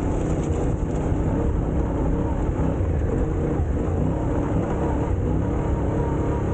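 Motorcycle engine running steadily while under way, at an even pitch and level.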